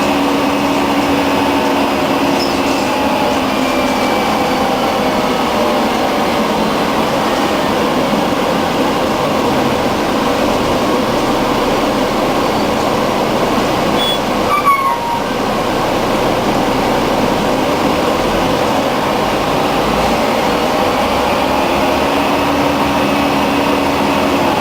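Scania N113 bus under way, its diesel engine running with steady road and air-conditioning noise. The engine tone shows clearly near the start and again near the end. About fifteen seconds in comes a short high squeal falling in pitch, with a brief dip in the noise.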